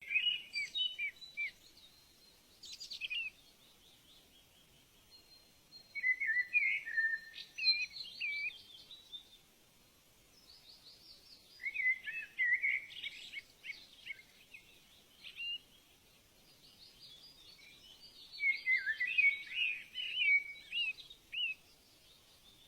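A songbird singing in bursts of quick chirping, warbling phrases, repeated about every five to six seconds with quieter gaps between, over a faint steady hiss.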